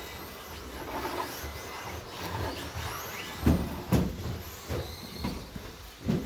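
Electric RC stadium trucks with 13.5-turn brushless motors racing, their motors whining up and down in pitch as they accelerate, with several sharp thuds in the second half as trucks land or bump.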